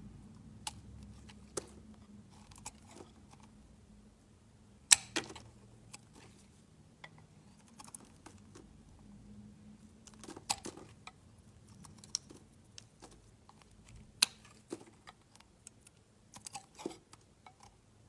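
A knife cutting into soap: irregular sharp clicks and crisp crunches, the loudest about five seconds in and a quick cluster near the end.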